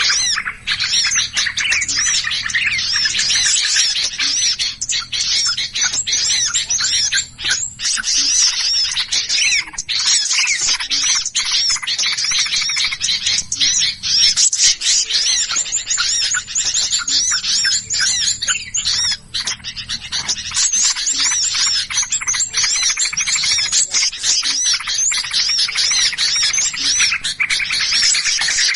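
Dense, continuous chorus of many small birds chirping and twittering rapidly over one another, with quick rising and falling notes: a mixed-species bird-lure recording of agitated, alarm-calling songbirds.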